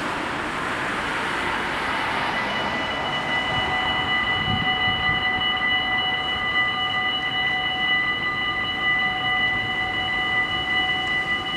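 Dutch automatic level-crossing warning bells start ringing about two seconds in and keep ringing steadily, at several pitches at once. Before that, the rushing noise of a passing vehicle fades away.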